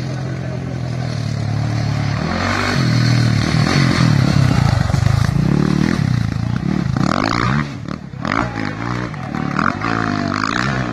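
Rally-raid off-road motorcycle engine revving hard as it passes close, loudest about halfway through. After a brief drop about eight seconds in, the engine revs rise and fall again through gear changes.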